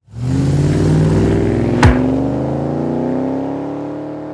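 A car engine accelerating, its pitch rising slowly, with one sharp crack a little under two seconds in; the sound then begins to fade.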